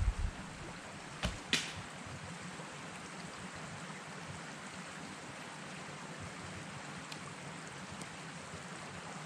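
Steady running or falling water, with a few sharp knocks in the first two seconds.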